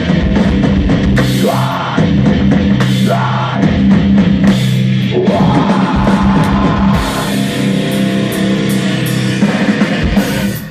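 A loud live heavy rock band playing, with a pounding drum kit over steady low guitar and bass notes.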